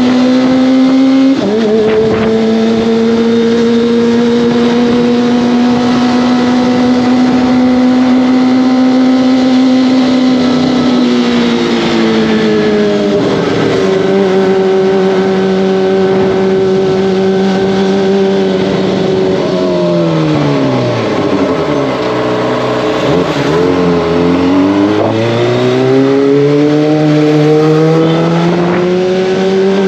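Kawasaki ZX-25R's inline-four engine and exhaust under way, running at high revs with a steady note and a gear change just over a second in. The pitch eases down around twelve seconds, falls right away near twenty seconds as the bike slows, then rises again as it accelerates back up through the gears near the end.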